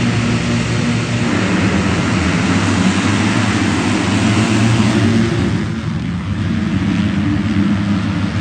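Motocross dirt bike engine running hard under heavy noise; the sound quietens a little about five and a half seconds in.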